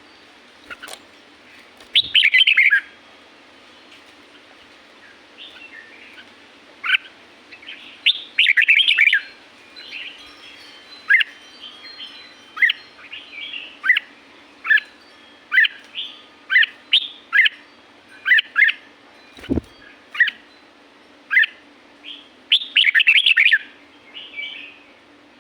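Red-whiskered bulbul singing: longer warbling phrases about 2, 9 and 23 seconds in, and short, sharp single notes about once a second in between. A single dull thump near the 20-second mark, over a faint steady low hum.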